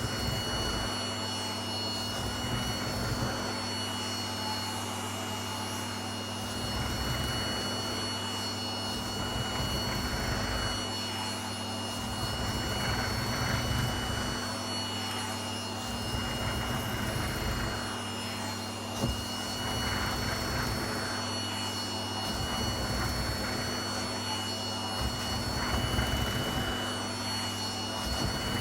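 Vacuum cleaner running with a steady high whine over a low hum. Its low rushing swells and drops every couple of seconds, as if pushed back and forth.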